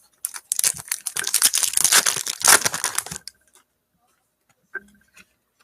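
A trading-card pack's foil wrapper being torn open and crinkled for about three seconds, followed by a few faint clicks and a soft knock.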